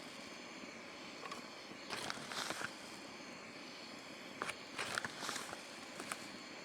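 Coffee gear being handled: a few scattered light knocks and rustles, about two seconds in and again around five seconds, over a steady faint hiss.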